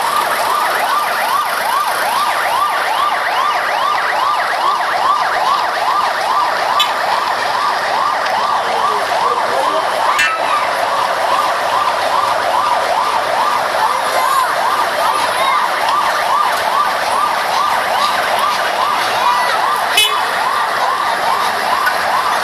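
Fire engine siren wailing in a fast yelp, a quick rising sweep repeating about three times a second without a break.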